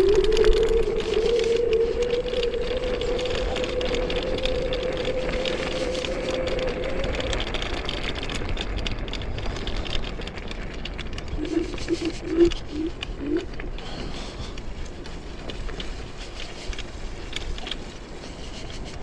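Chaos FreeRide electric scooter's dual 1,200 W motors whining under way, the whine rising slightly in pitch for the first several seconds as it gathers speed, then fading, over a steady rumble. About twelve seconds in, a pigeon coos a few times.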